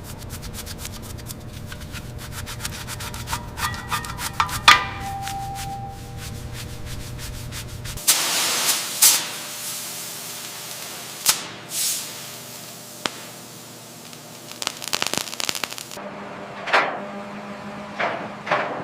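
Metal restoration work noise in three short cuts: first fast rasping strokes over a low hum, like sanding or scraping metal, then a loud hiss with a few sharp knocks, then more scraping with a few hits.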